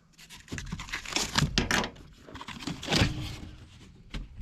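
Cardboard shipping box being opened and its contents handled: crinkling and tearing of cardboard and packing, with a knock about three seconds in.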